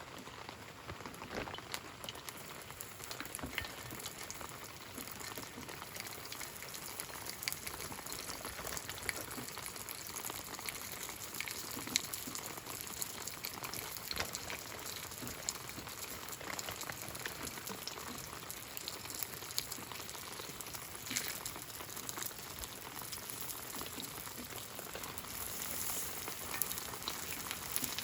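Kimchi pancake frying in oil in a pan, a steady sizzle with many small crackles.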